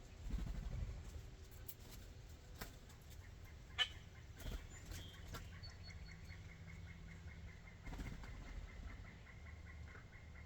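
Birds at a ground feeding spot: low thumps and wing flutter, a few sharp taps with one loud tap about four seconds in, then a rapid, even series of soft high ticks through the second half.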